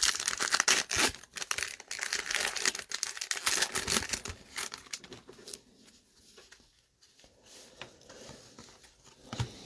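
Foil wrapper of a trading card pack being torn and crinkled, dense and loud for the first four seconds or so, then dropping to quieter scattered rustling.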